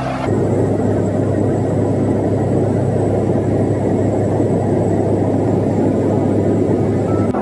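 Aircraft engines droning steadily, with a strong low hum and a faint high whine, starting after a cut shortly in.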